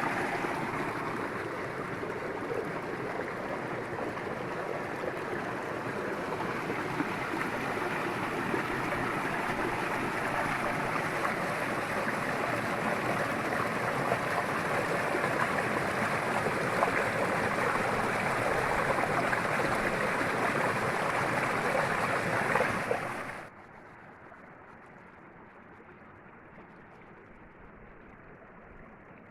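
Derna River water flowing, a steady dense rush. About 23 seconds in it cuts abruptly to a much quieter, duller water sound.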